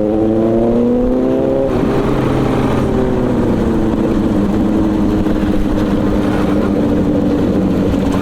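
Superbike engines at speed on the road: the pitch rises as they accelerate for about two seconds, then settles into a steady cruise tone.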